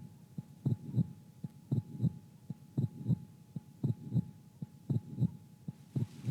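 Heartbeat: paired lub-dub thumps about once a second, steady in tempo, over a faint steady hum.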